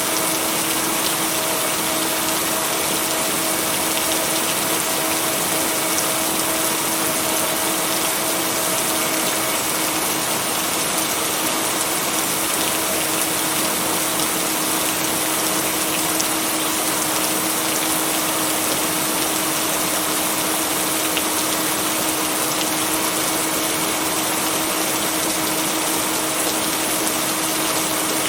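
Steady rain, an even hiss with no thunder, with a low steady tone held underneath it.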